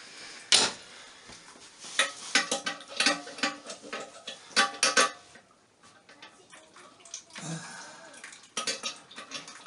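Sharp metallic clinks and rattles in irregular clusters as hand tools work loose the bolts of a toilet tank, with a quieter lull in the middle.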